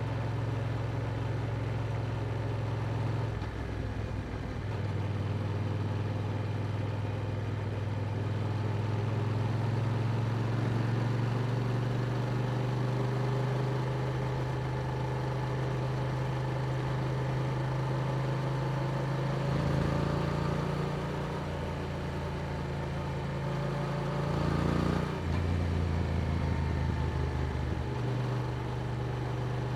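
Yamaha R7's parallel-twin engine running through an Akrapovic exhaust at a steady cruising note. The note changes briefly about three-quarters of the way through and then settles again.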